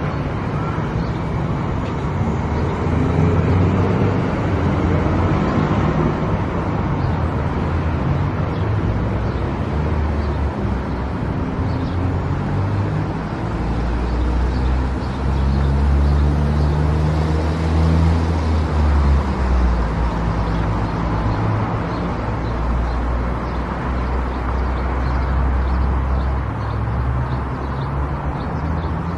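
Car driving at highway speed: steady tyre and road noise with a low engine hum that shifts slightly in pitch partway through.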